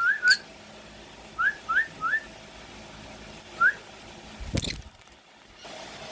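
A series of short, rising whistled notes: two at the start, a quick run of three after about a second and a half, then a single one later. A brief rustling thump follows about four and a half seconds in.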